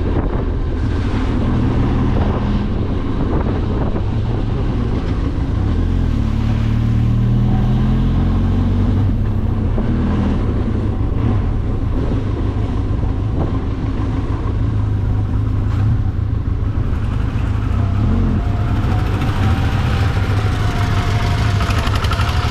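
Benelli TRK 502X's parallel-twin engine running under way, a steady drone whose pitch rises and falls with the throttle.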